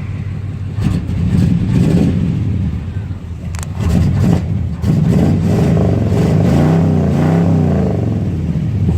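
Box-body Chevy Caprice engine running after a cold start in sub-freezing weather, the throttle blipped so the revs rise and fall twice near the end. A short click comes partway through.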